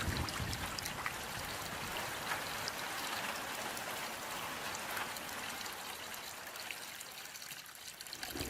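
Steady rain: an even hiss of falling water with scattered individual drop ticks, easing slightly near the end.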